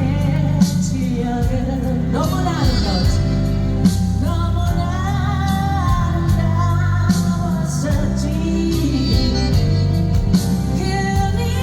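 A live pop song played loud over a PA: a sung lead vocal with melodic held notes over a band backing with steady bass and regular drum hits.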